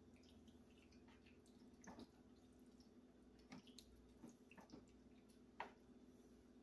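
Near silence over a low steady hum, broken by a few faint, soft clicks and squelches of a spoon working through a creamy pasta casserole mixture, the sharpest one near the end.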